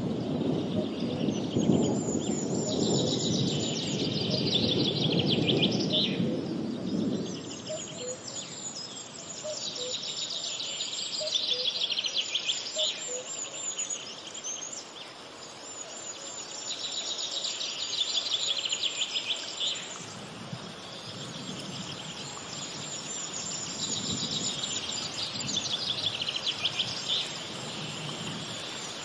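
Birds singing in repeated high, rapid trilling phrases a few seconds long, with short pauses between them, over a low rushing background noise that is strongest in the first several seconds.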